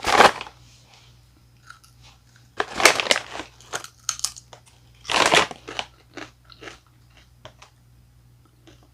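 Biting into and chewing taco-flavoured Doritos tortilla chips: three loud crunches a couple of seconds apart, then smaller crunching as the chips are chewed.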